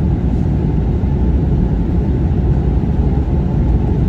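Steady, low-pitched rumble of an airliner's engines and the air rushing past, heard inside the passenger cabin.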